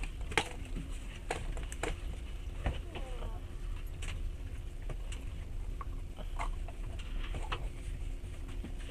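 Inside a passenger train carriage: a steady low rumble with irregular clicks and knocks, and faint voices in the background.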